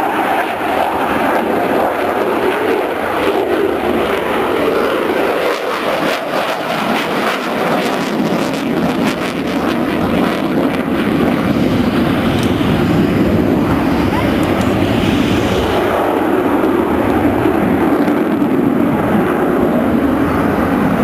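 Military aircraft engine noise at an airshow: a loud, steady rushing noise that gets a little louder about halfway through.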